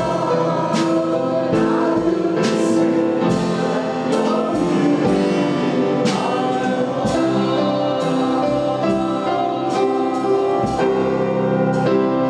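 Worship band and singers performing a gospel chorus, with sustained vocal and keyboard notes over a steady beat of drum and cymbal hits.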